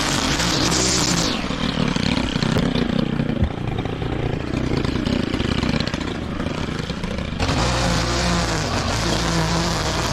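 Petrol lawn mower engine running steadily under load, its pitch wavering slightly as it works through the grass. The high hiss over it drops away about a second in and returns near the seventh second.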